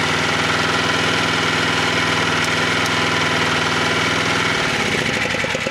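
Honda E1500 portable generator's engine running steadily, freshly started with choke on a cold day. About four and a half seconds in, its note starts to waver and drop.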